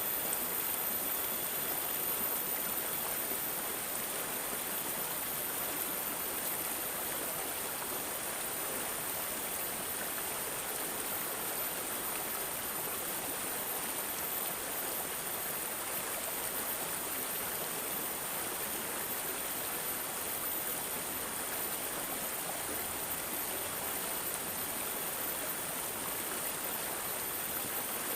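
Stream water babbling and gurgling steadily, an even burble with no change in level.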